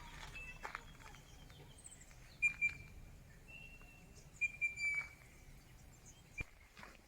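Birds calling: short, clear whistled notes, loudest about two and a half seconds in and again around four and a half to five seconds in.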